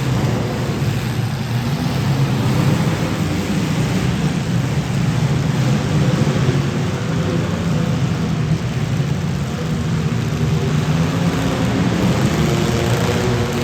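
Demolition derby cars' engines running together, a loud, steady engine noise with a wash of noise over it.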